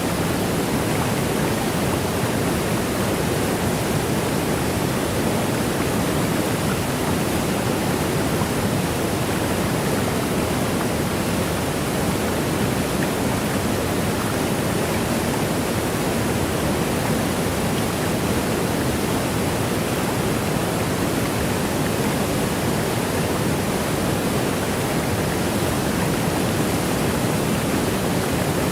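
Waterfall rushing: a steady, even roar of falling water that never changes.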